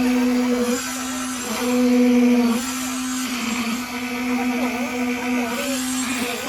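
An engine running at a steady, unchanging pitch, with rougher noise swelling and fading over it.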